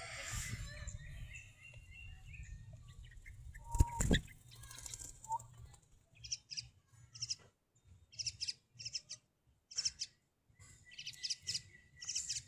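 A small bird chirping: short, high calls repeated about once or twice a second through the second half. A sharp knock about a third of the way in is the loudest sound.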